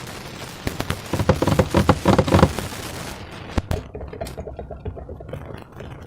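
Slime being squeezed and worked by hand, giving wet crackling and popping clicks: a dense run of pops about a second in, one sharp snap after the middle, then softer crackles.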